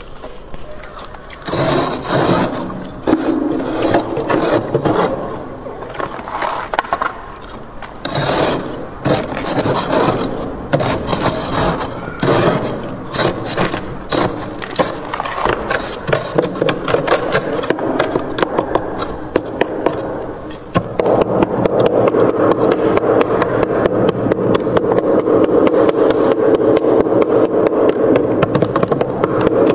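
Freezer frost being scraped in repeated, irregular strokes. About twenty seconds in the scraping becomes denser and steadier.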